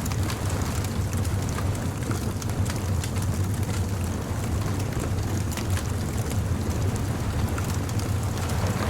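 Bonfire crackling, with many small sharp pops scattered over a steady low rumble.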